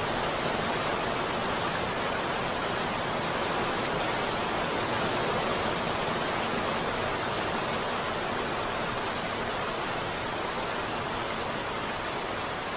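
Steady heavy rain, a dense even hiss with no thunder. It cuts in abruptly right at the start after a moment of silence.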